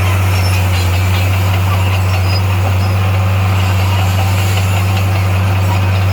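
Heavy construction machine's engine running steadily at low revs, a constant low hum with no change in pitch or level.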